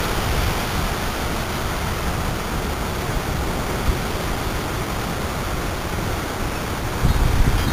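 Storm winds of about 50 to 60 mph rushing steadily and buffeting the camera's small built-in microphone. Heavier low gusts hit the microphone about seven seconds in.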